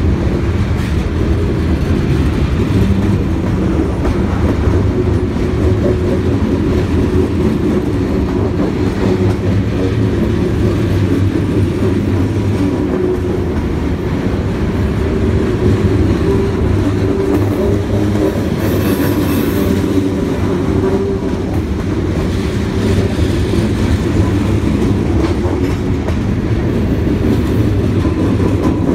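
Freight train of covered hopper cars rolling past at a grade crossing: a loud, steady noise of steel wheels on the rails that holds level throughout.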